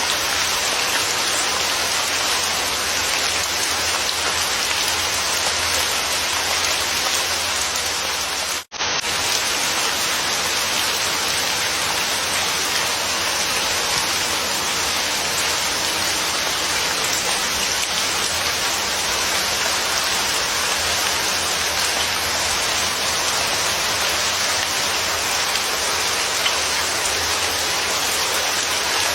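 Steady, dense rain falling, an even patter of drops on a surface. About nine seconds in, it cuts out for a split second and resumes.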